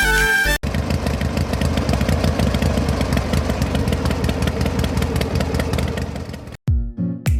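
Diesel engine running steadily with a rapid, even chug, cutting off suddenly near the end. Music plays briefly at the start and returns after the engine stops.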